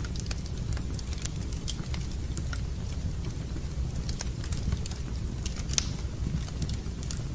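Wood fire burning in a fireplace: irregular small crackles and pops over a steady low rumble, with a sharper pop about six seconds in.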